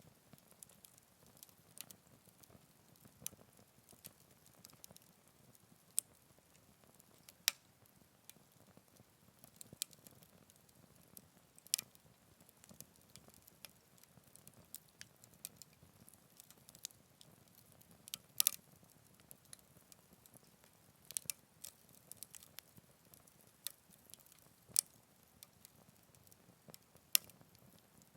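Wood fire crackling in a Picogrill 398 fire pit: scattered sharp pops and snaps at irregular intervals, a handful louder than the rest, over a faint low hiss.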